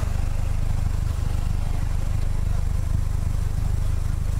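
Engine of an open-cockpit roadster idling steadily, a low, even running sound with no change in pitch.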